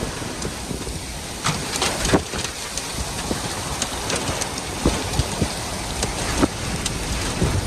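Rain falling steadily, with many sharp irregular taps of drops striking a surface close by.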